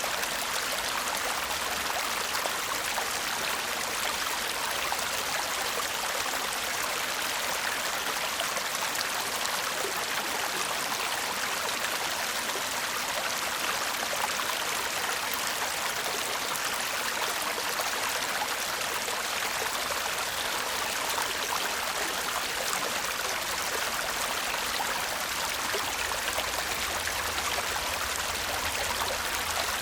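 A shallow stream babbling steadily over stones, an even rush of water with no pauses.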